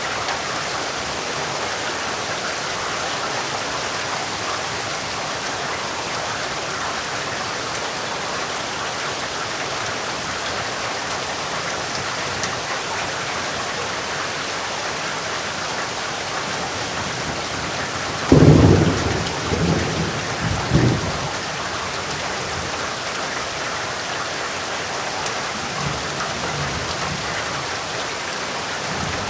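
Steady rain falling, with thunder: a sudden loud clap about two-thirds of the way through that rolls on for a few seconds, and a faint distant rumble near the end.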